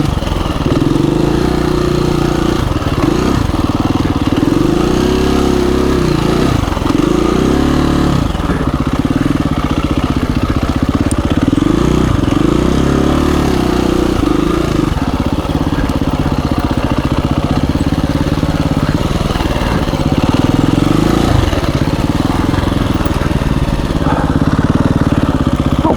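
KTM 350 EXC-F dirt bike's single-cylinder four-stroke engine running under load while being ridden, its revs rising and falling constantly.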